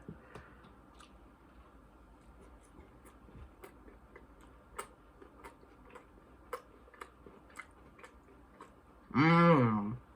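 A person chewing a crispy battered cheese bite: soft, irregular crunches and mouth clicks. Near the end comes a short hummed "mmm".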